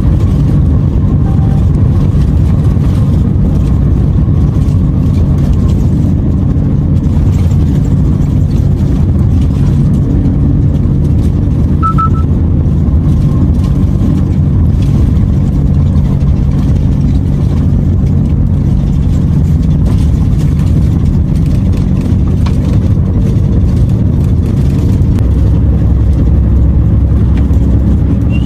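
Renault T480 truck's diesel engine running under way with tyre and road noise, a steady low drone that grows a little heavier near the end.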